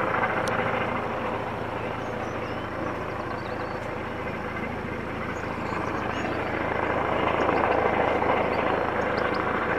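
Police helicopter flying overhead, its rotor and engine noise running steadily, easing off a little midway and growing louder again near the end.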